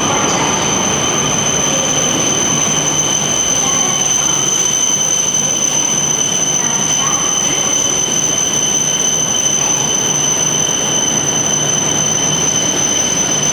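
E6/E5 series Shinkansen trainset at the platform, giving off a steady high-pitched whine over a constant rumble.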